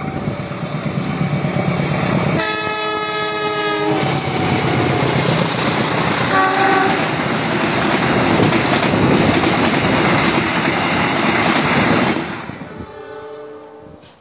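A passenger train approaches and passes close by. It sounds a long blast on its horn about two seconds in and a short toot a few seconds later. Then comes the loud rush and clatter of the coaches and wheels going past, which fades quickly near the end.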